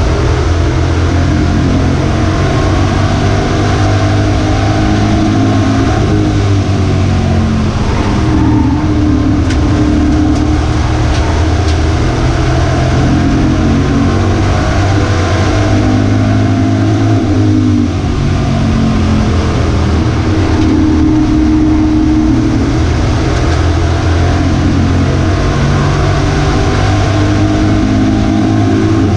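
Racing truck's V8 engine at racing speed, loud and continuous, its pitch climbing under acceleration and dropping off again every few seconds as it lifts and gets back on the throttle.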